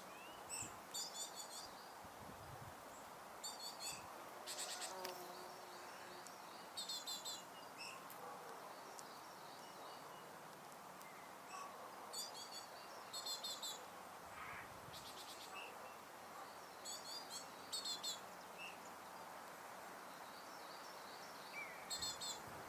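Songbirds singing outdoors: short, high, rapid trilled phrases repeated every few seconds over a steady hiss of background noise.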